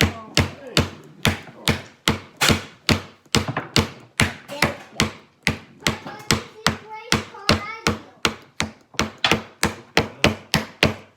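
A hammer striking a nail into a wooden kit piece again and again, with quick sharp knocks at about three a second.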